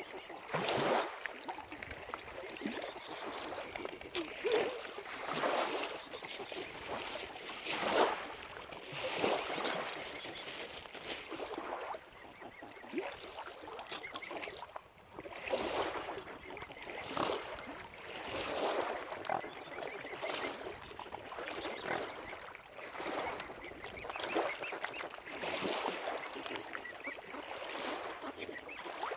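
Waterfowl calling, with short calls repeating at irregular intervals every second or few seconds.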